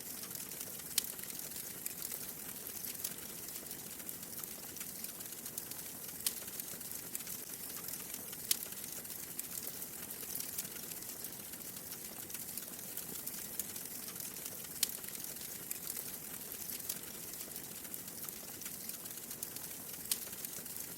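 Wood fire in a fireplace crackling over a steady hiss, with a handful of sharp pops a few seconds apart.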